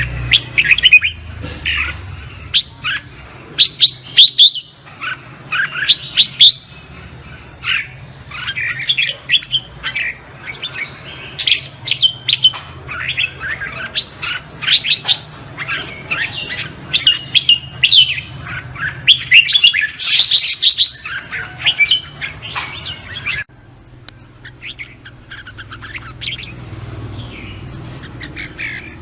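Red-whiskered bulbuls singing, a dense run of quick, warbled chirps and whistled phrases, over a low steady hum. The background changes abruptly about three-quarters of the way through while the singing carries on.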